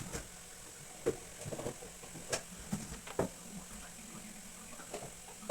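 A few short knocks and clicks of things being handled in a kitchen, over a faint steady hiss.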